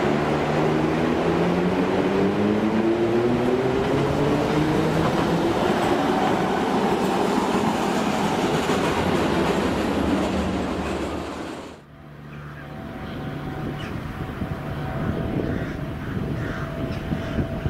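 Train in a station with a whine that rises slowly in pitch over its running noise, as the train gathers speed. About twelve seconds in the sound drops away suddenly, leaving quieter train noise with a steady hum.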